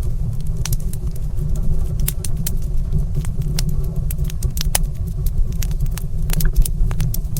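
Wood fire crackling in a stone fireplace: frequent irregular sharp pops and snaps over a steady low rumble.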